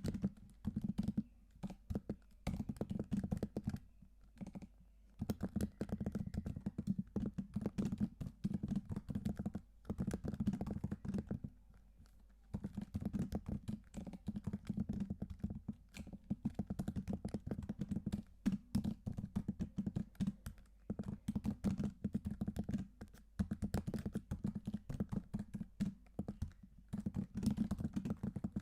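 Typing on a computer keyboard: fast runs of key clicks broken by a few short pauses.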